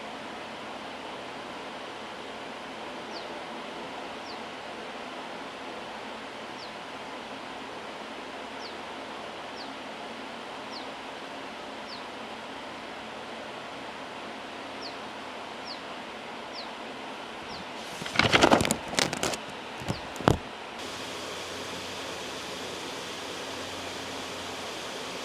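Loud steady white noise with faint pen-writing strokes ticking through it. About 18 seconds in comes a brief clatter of loud knocks and rustling lasting a couple of seconds, after which the hiss turns slightly brighter.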